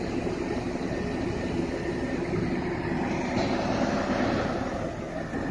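Heavy marine diesel machinery running steadily, a low, even engine hum with a rumbling haze, as on a floating crane or its attending vessels during a heavy lift.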